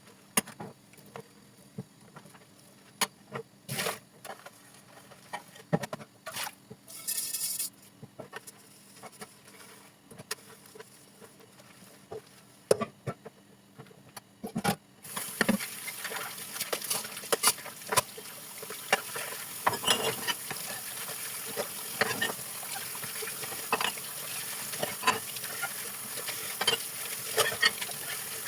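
Dishwashing at a sink: dishes and utensils clinking and knocking, then about halfway through a tap is turned on and water runs steadily while the clinking goes on.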